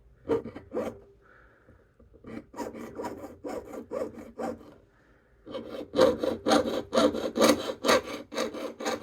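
Jeweler's saw cutting 20-gauge sterling silver sheet in short back-and-forth strokes, about three a second. After a couple of strokes and a pause it settles into a steady run, and the strokes grow louder in the last few seconds.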